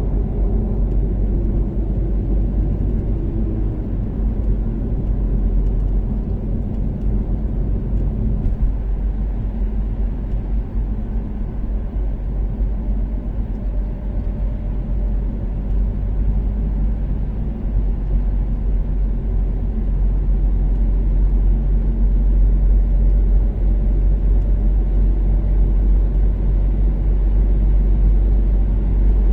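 Toyota Caldina ST246W's turbocharged 3S-GTE four-cylinder engine and tyres at steady expressway cruise: a continuous low rumble with the engine tone shifting during the first several seconds, then holding steady.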